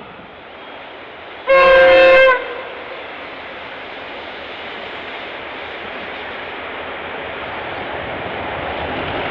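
Clyde Engineering T-class diesel-electric locomotive's horn sounding one short blast, under a second long, about a second and a half in. Afterwards the steady rush of the passing train grows slowly louder.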